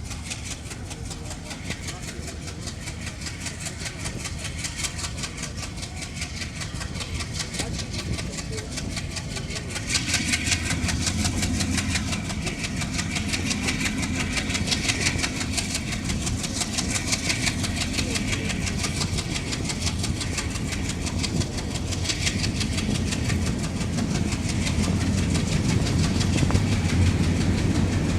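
Train running on the rails, wheels clattering over the track, the sound growing steadily louder and busier, with a jump in loudness about ten seconds in.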